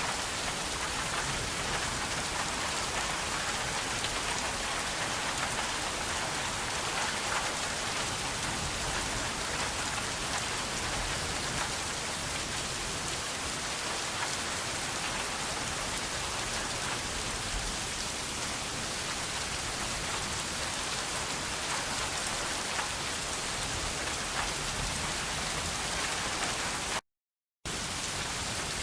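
Steady rain falling, an even hiss of many drops at a constant level. The sound cuts out completely for about half a second near the end.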